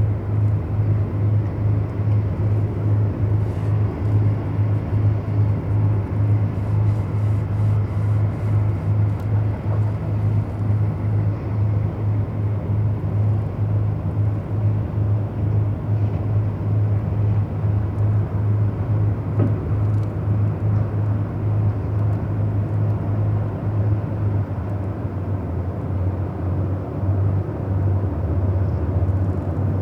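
A steady low engine drone with a constant deep hum, running without change.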